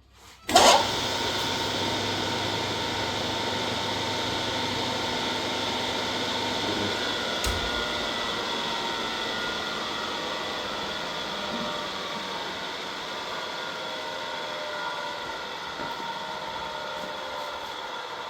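A motor-driven machine starts abruptly about half a second in and keeps running steadily, a whine of a few steady tones over a noisy hiss, some of the tones sinking slightly lower near the end.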